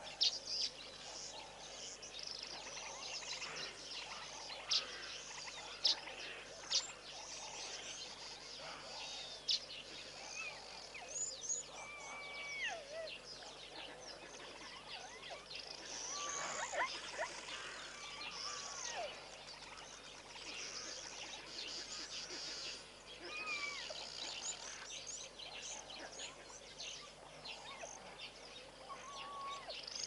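Wild birds calling: many short chirps and sharp chips with whistled notes, some sliding down in pitch, over a steady hiss of ambient noise.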